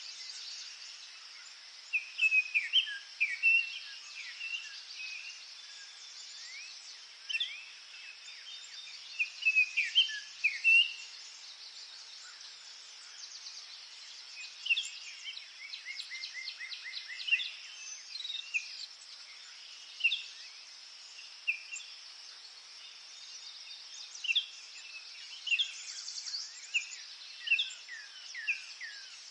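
Several forest songbirds chirping and singing in short, scattered phrases, with one fast trill of repeated notes about midway, over a steady high-pitched insect drone.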